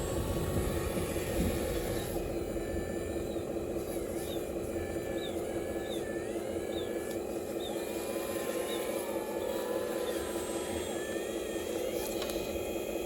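Small electric motors of a radio-controlled construction machine whining steadily, their pitch rising and falling several times as the machine works.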